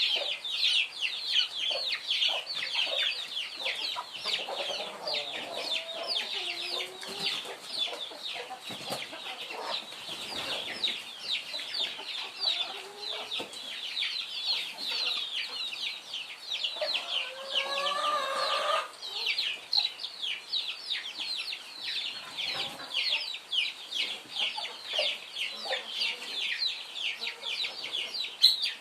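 Many chicks peeping without pause, a dense stream of short high falling peeps, with lower clucking calls from an adult hen now and then, strongest about two-thirds of the way through.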